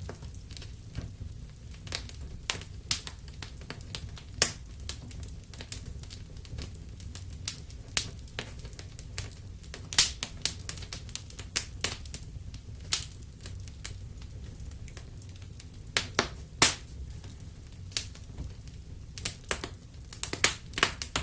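Wood fire burning in a fireplace, crackling with irregular sharp pops and snaps over a low steady rush of the flames, a few pops louder than the rest.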